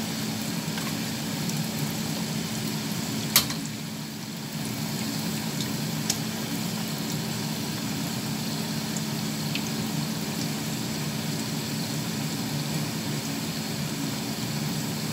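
Breaded beef cutlets frying in hot oil in a small pan, a steady sizzle over a constant low hum. A single sharp click comes a little over three seconds in.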